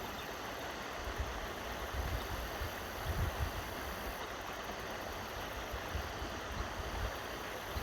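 Steady rush of river water flowing below a dam, with irregular low rumbling bumps underneath.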